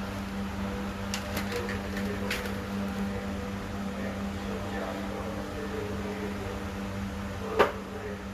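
Steady machine hum, with a few light clicks in the first half and one sharp click near the end.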